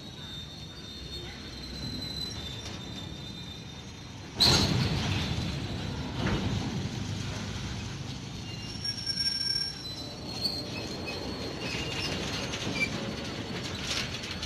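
Goods train's steel freight wagons moving slowly on the rails, wheels squealing in thin high tones over a steady rumble. The sound jumps suddenly louder about four seconds in.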